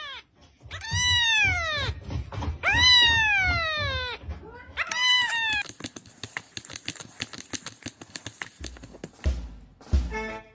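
A domestic cat meowing: three long, drawn-out meows, each falling in pitch. These are followed by a fast run of clicks and a couple of low thumps near the end.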